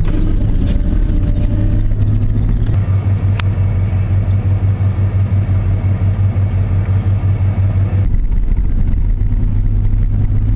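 Ford F-150 pickup running on the road, heard from inside the cab as a steady low engine and drivetrain drone. The drone pulses evenly for a few seconds in the middle, with a single click about three and a half seconds in, and the higher hiss drops away about eight seconds in.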